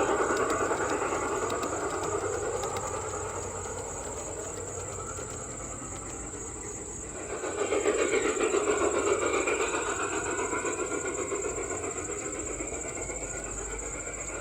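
Garden-scale model train running along its outdoor track, fading away and then growing louder again about halfway through as it comes back past.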